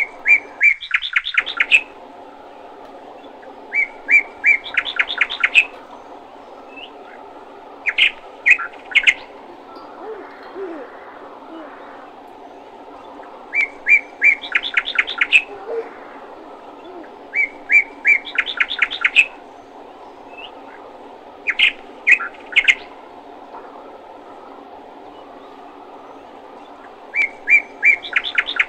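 Small bird chirping in quick runs of high chirps, repeated about every four to five seconds, over a steady low hum.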